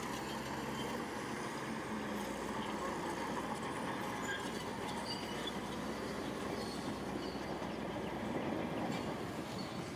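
Shantui bulldozer's diesel engine running steadily.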